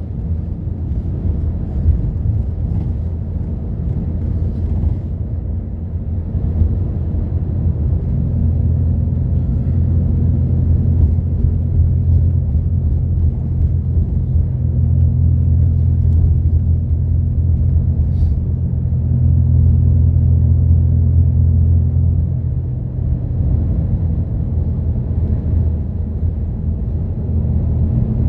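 Route bus heard from inside the cabin: a low engine drone and road rumble. About eight seconds in, the engine settles into a steady hum as the bus holds a constant speed.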